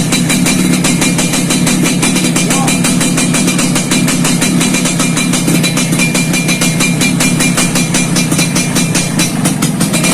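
Yamaha RX-King 135 cc single-cylinder two-stroke engine idling steadily through an aftermarket 'lobster' racing exhaust, a fast even crackle of firing pulses.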